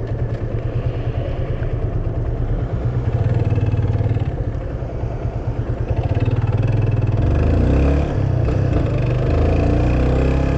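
Yamaha Fazer 250 motorcycle's single-cylinder engine running while riding, picking up revs about six to seven seconds in.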